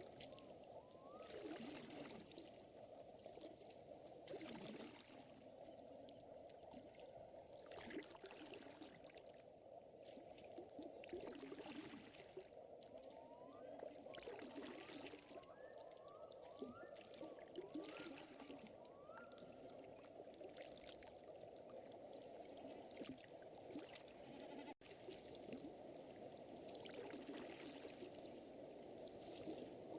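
Quiet lakeside nature ambience: water trickling and lapping steadily, with short rising chirps in scattered runs and occasional soft rustling swells.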